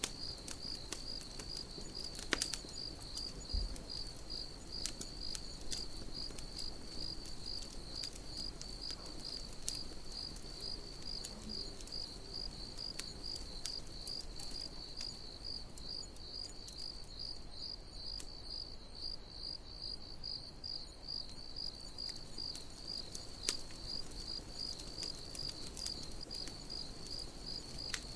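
Crickets chirping steadily in an even, high-pitched rhythm of about three chirps a second, with the sharp scattered pops and crackles of a campfire burning.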